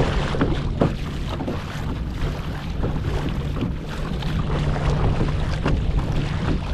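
Wind buffeting the microphone over water splashing and lapping against the hull of a kayak under way, with short splashes scattered through.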